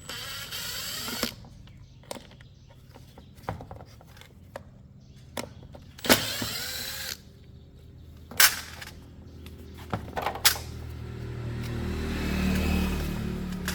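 Tools and metal parts being handled on a motorcycle: scattered sharp clanks and knocks, one louder knock partway through, and two short hissing noises. A low hum runs underneath and swells near the end.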